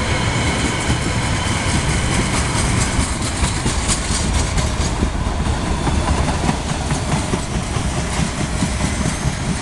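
Freight train rolling past on the Belgrano line's track, mostly empty spine and flat wagons, with wheels clattering over rail joints in quick runs of clicks.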